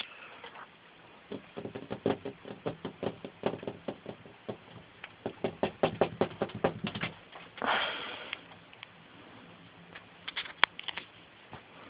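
A run of light, quick taps and knocks, several a second for about six seconds. A short rustle follows, and near the end a few more clicks.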